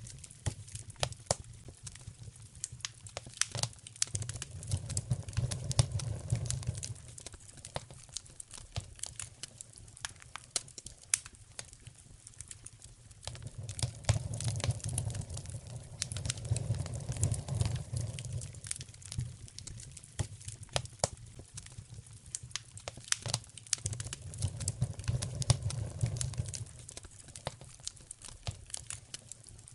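Wood fire crackling in a fireplace, with frequent irregular sharp pops and snaps. A low rumble swells and fades three times underneath.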